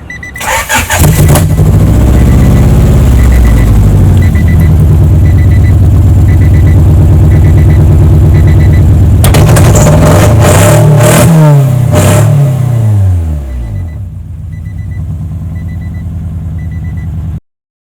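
A 1992 Honda Prelude four-cylinder is cranked by the starter and catches about a second in. It then runs loud and raw through a straight-pipe exhaust with a Magnaflow glasspack. A few quick revs rise and fall about two-thirds of the way through, then it settles to a quieter idle before the sound cuts off sharply near the end. A faint beep repeats steadily underneath.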